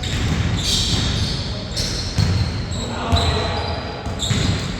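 Basketball bouncing on a court during play, repeated dull thumps, with players' voices calling out.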